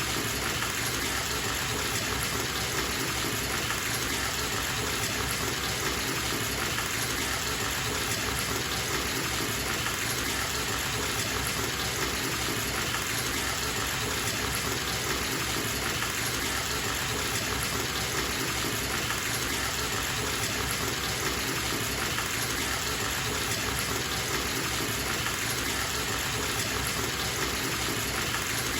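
Water running from a bathtub tap into the tub, a steady unbroken gush.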